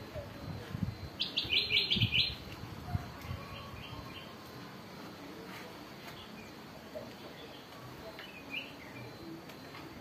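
A small bird chirping: a quick run of about seven high notes a little over a second in, then a few scattered faint chirps. Low knocks from a bird cage being handled come in the first few seconds.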